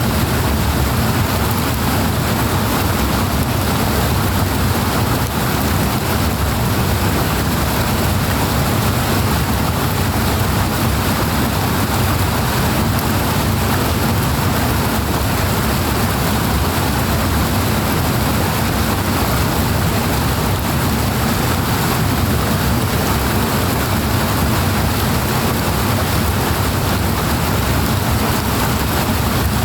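Loud, steady rush of powerfully flowing water, an even hiss and roar with no breaks or changes.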